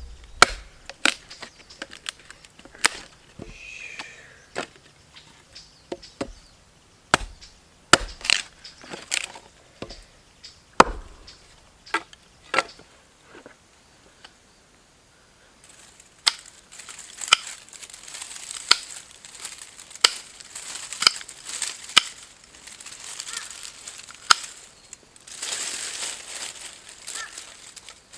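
Wood being chopped with sharp blows about a second or two apart. About halfway through the blows give way to a steady crackling full of small clicks, which grows louder near the end.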